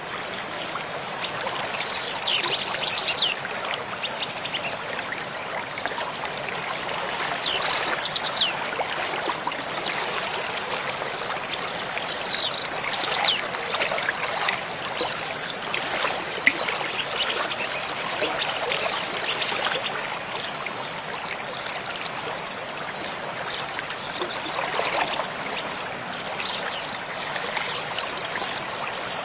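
Mountain stream flowing steadily, with a songbird singing four short phrases of high, falling notes, the first three about five seconds apart.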